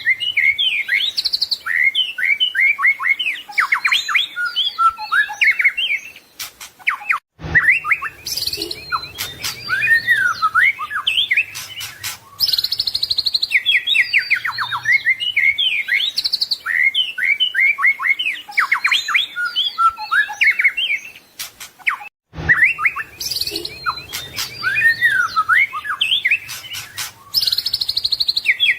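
White-rumped shama (murai batu) singing a long, varied 'full isian' song of rapid whistles, trills and chattering phrases that include imitations of other birds. It breaks off with a short pause twice, and the same song passage repeats after each break.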